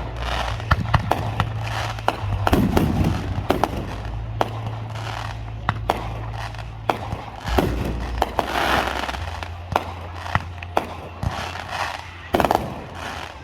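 Fireworks show: aerial fireworks bursting in quick succession, many sharp bangs with crackling between them, and two loud bangs close together near the end.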